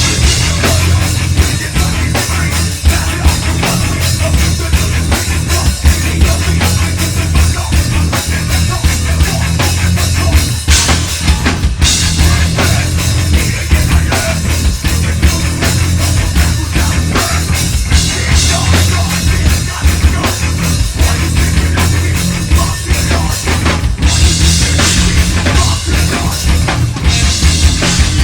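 A heavy metal band playing live at full volume: dense, driving drum kit over a heavy low end, with cymbals washing in several times.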